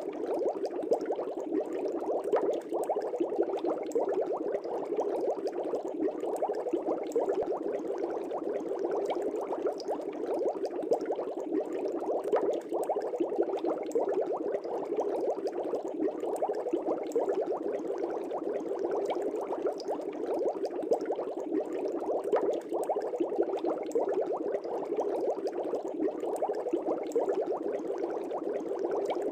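Air bubbles rising and breaking in an aquarium, a steady dense bubbling with many tiny pops and crackles.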